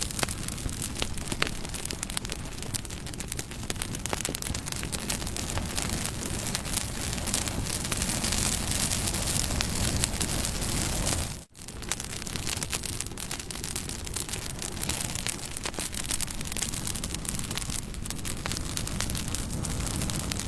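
Bonfire burning with a steady hiss and frequent sharp crackles and pops of burning wood. The sound drops out for a split second about halfway through.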